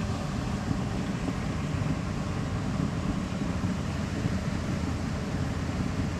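Wind buffeting the microphone: a steady low rushing noise that never stops.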